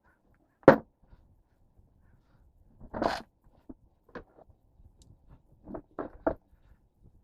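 A few separate knocks and clatters of parts and tools being handled during a repair: a sharp knock about a second in, a longer scraping rustle around three seconds in, and a quick run of smaller knocks near the end.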